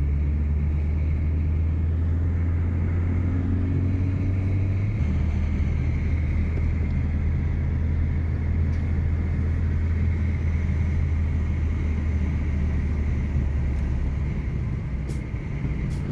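Car being driven: a steady low engine and road rumble, whose low drone shifts down about five seconds in.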